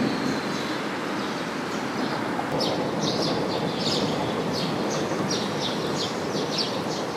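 A steady rumbling noise throughout. From about a third of the way in, a bird chirps in a quick series of short, high calls.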